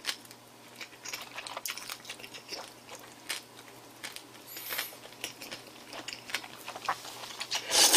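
Close-miked mouth sounds of a person chewing a mouthful of food, with small wet smacks and clicks. A louder rushing noise comes in near the end.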